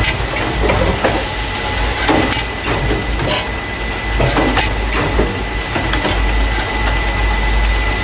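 Carton case packer running: a steady low hum with a thin constant whine, and clacks and knocks roughly once a second as the machine moves paper drink cartons into plastic crates.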